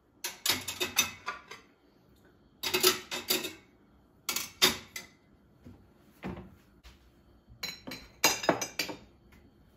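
Washed dishes and cutlery being put away, clinking and knocking against each other in several short bursts.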